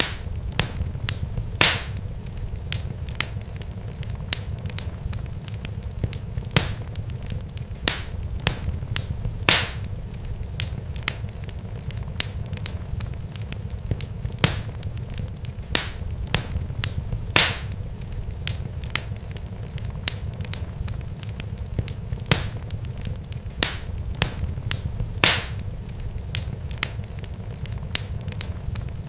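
Fire crackling, with irregular sharp pops, a few of them loud, over a steady low rumble.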